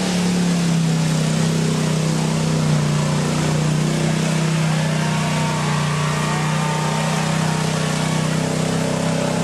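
Mud-bog truck's engine running hard at high revs; its pitch eases down a little at the start, then holds steady.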